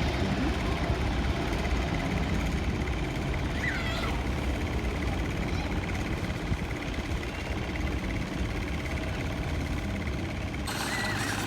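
Steady low rumble of distant engine noise, with a short high whistle about four seconds in.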